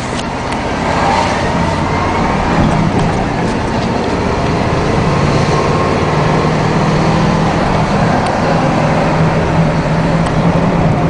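The 7.4-litre 454 V8 of a 1997 Chevy Cheyenne 3500 HD truck running steadily, its low engine hum mixed with road noise. It swells over the first second, then holds even.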